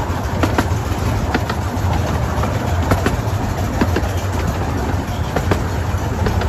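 Miniature railway carriage running along the track: a steady low rumble from the wheels, with irregular sharp clicks and clacks from the rail joints.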